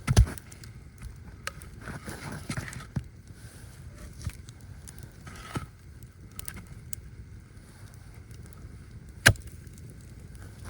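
Rustling and handling noise with a few sharp knocks or snaps, the loudest right at the start and another about nine seconds in.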